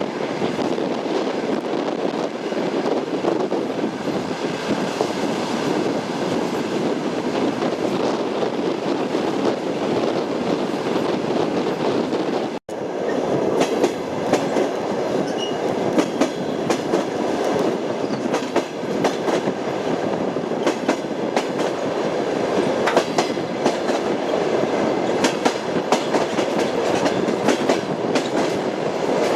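Train wheels knocking over rail joints in a clickety-clack, over a steady running rumble. The sound cuts out abruptly about halfway through, then resumes with sharper, more frequent clicks.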